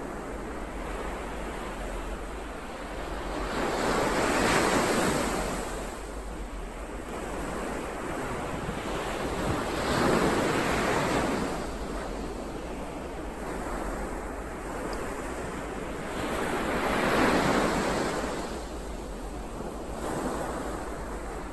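Ocean waves breaking and washing on a shore, three larger waves swelling and falling away about every six to seven seconds over a steady wash of surf.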